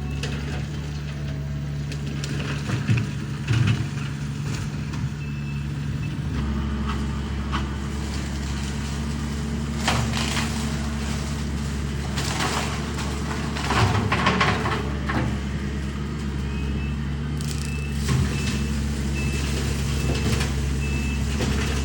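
Skid steer engine running steadily; its note steps up about six seconds in. Several short, louder bursts of noise come around the middle, and a faint repeating beep sounds over the last few seconds.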